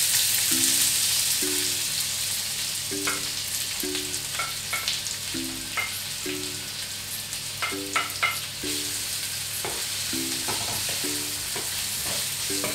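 Chopped onion sliding into hot olive oil and garlic in a frying pan, with a loud sizzle as it lands, settling into a steady frying sizzle. A wooden spoon clicks and scrapes against the pan as the onion is pushed in and stirred.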